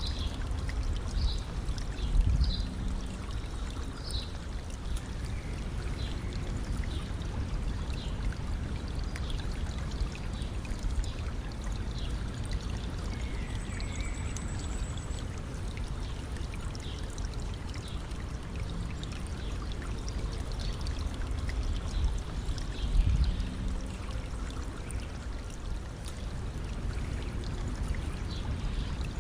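A stream running and trickling over stones in a steady flow, with a louder low gurgling surge about two seconds in and again near the end.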